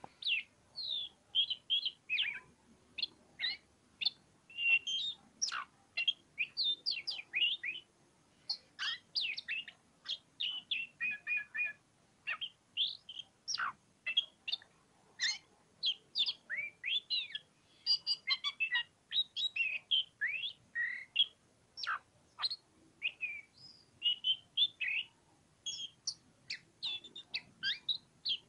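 Oriental magpie-robin (kacer) singing continuously: a long string of short whistled notes and chirps, many sliding in pitch, with a few rapid rattling runs and brief pauses between phrases.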